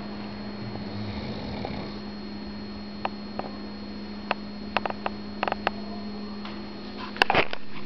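Sleeping pug's nasal snuffling and sniffing over a steady electrical hum, with a run of short clicks in the middle and a sudden loud noise near the end.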